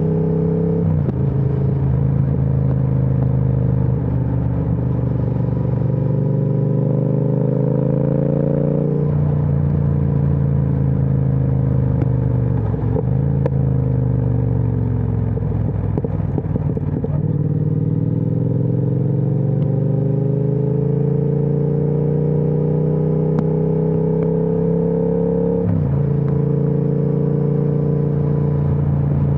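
Triumph Speed Twin 1200 parallel-twin engine through a Vance & Hines aftermarket exhaust, ridden through the gears. The engine note climbs steadily and drops sharply at each upshift, about a second in, around nine seconds in and again near the end. In between, the throttle closes and the note falls away, with a rough, crackly stretch on the overrun before it pulls up again.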